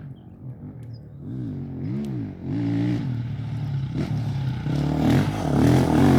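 Off-road race vehicle engine revving. Its pitch swings up and down a couple of times, then the engine grows steadily louder and closer toward the end.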